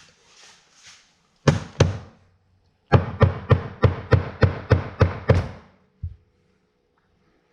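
Repeated blows driving the vent window glass, wrapped in setting tape, into its frame to seat it: two knocks, then a steady run of about nine at roughly three a second, then one duller thud.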